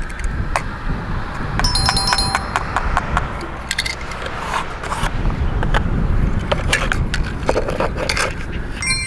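Small plastic toy cars and playset pieces being handled and rolled: repeated light clicks, knocks and scraping over a low rolling rumble, with a brief electronic-sounding tone about two seconds in.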